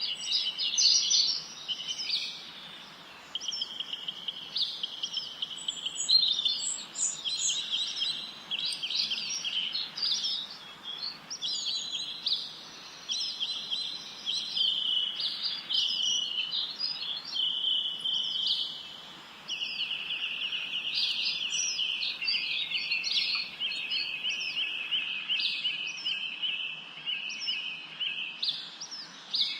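Songbirds chirping and trilling without pause, several high-pitched calls overlapping, over a faint steady background hiss.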